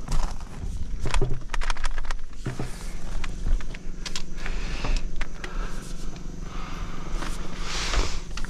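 A machine's engine running steadily, with many sharp metallic clanks and knocks over it, clustered in the first few seconds.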